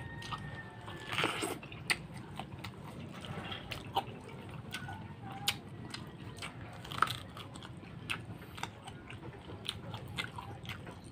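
Close-up biting and chewing of an unripe soursop's tough, chewy flesh, with irregular wet clicks and small crunches.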